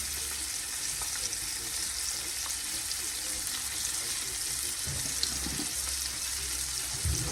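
Meat strips and onion sizzling in a frying pan, a steady hiss, with a few soft low knocks around the middle and near the end.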